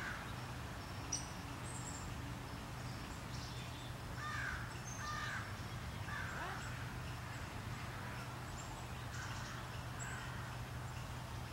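Birds calling among the trees: a run of three calls about a second apart near the middle, a few fainter calls later, and faint high chirps, over a steady low hum.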